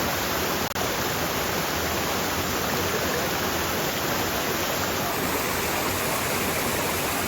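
Waterfall pouring: a steady, even rush of falling water, broken by a brief click and dropout less than a second in.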